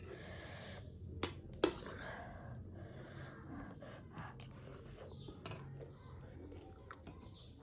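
Close-miked eating: a breathy exhale, then two sharp crunches a little after a second in, followed by soft chewing and small wet mouth clicks.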